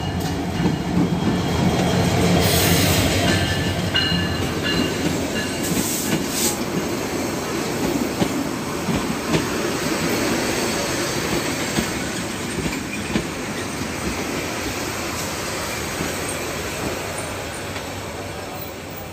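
Bangladesh Railway diesel-electric locomotive 3013 running past at low speed as it enters the station, followed by its passenger coaches rolling by with a steady rumble, a few brief wheel squeals and occasional knocks. The sound slowly gets quieter.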